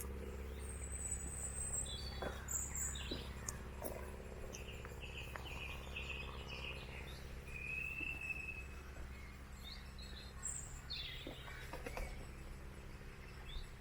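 Woodland birdsong: various small birds chirping and calling in short phrases, with a quick run of chirps about a third of the way in and a longer whistled note a little past halfway. A faint steady low hum and a few light clicks sit underneath.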